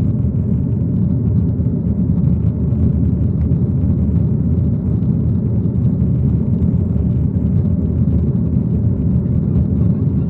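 A steady low rumble from an aeroplane, holding at an even level with no pitch changes or sudden sounds.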